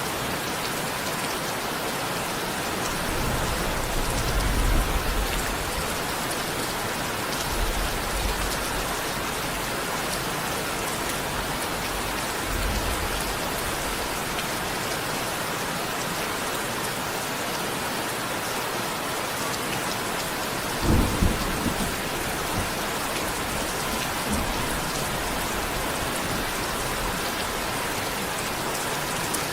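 Steady rain falling as an even hiss. Low rolls of thunder swell a few times, and a sharper, louder clap of thunder comes about two-thirds of the way through.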